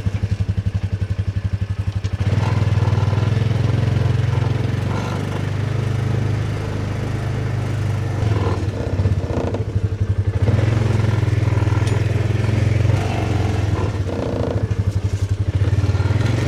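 An engine running steadily close by, its exhaust pulsing rapidly, with a little clatter over it.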